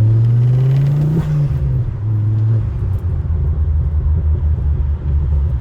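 Ford Focus ST engine accelerating from inside the cabin: its note climbs for about a second, then the revs drop sharply and it settles into a steady low drone with road rumble.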